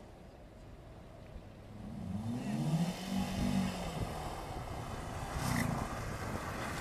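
BMW E30 engine revving while drifting on snow. The engine note climbs and falls in surges and grows louder about two seconds in as the car nears.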